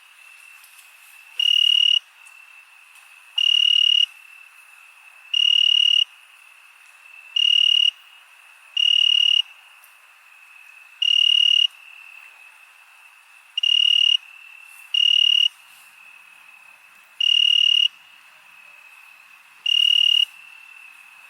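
Crickets at night: one loud cricket chirps in short bursts of about half a second, repeating roughly every two seconds, over a steady high-pitched trill from others.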